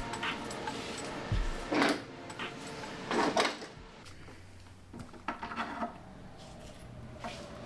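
Wooden boards being handled and fitted together: a few separate knocks and scrapes of wood on wood, spaced a second or two apart.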